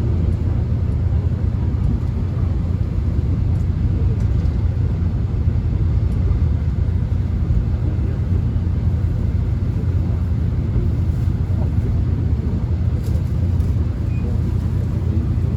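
Steady low rumble inside a subway train car as it runs along the track, with a few faint ticks over the top.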